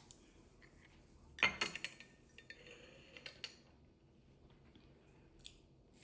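Kitchen utensils and dishes clinking and clattering: a quick cluster of knocks about a second and a half in, then a few lighter clicks.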